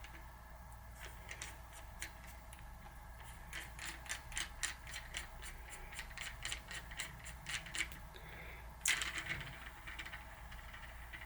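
Bottom bracket press being tightened to push a new 6802 sealed bearing into a bicycle freehub body. The tool gives a run of quick, regular clicks, about four or five a second, then a louder short scrape about nine seconds in.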